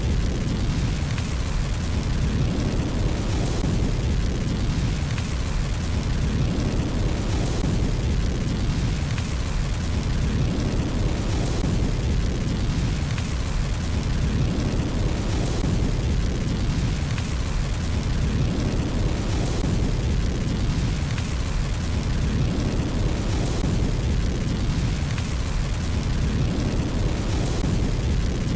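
Wood fire burning in a fireplace: a steady low roar with frequent crackles and pops.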